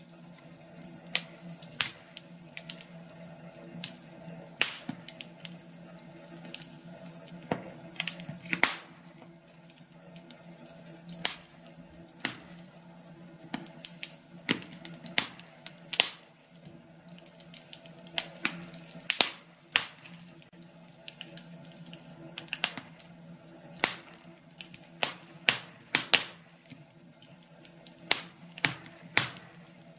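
Wood burning in a fireplace, crackling with irregular sharp pops, several a second, some louder than others, over a steady faint background.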